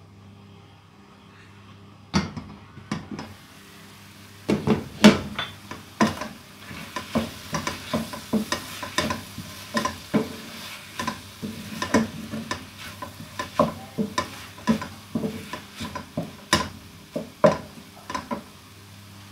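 A cooking utensil stirs food in a pan, knocking and scraping against it two or three times a second. A faint sizzle of frying runs underneath.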